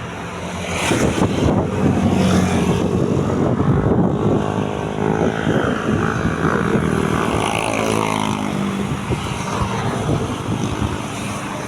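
A motor engine running steadily, its pitch sliding down and back through the middle.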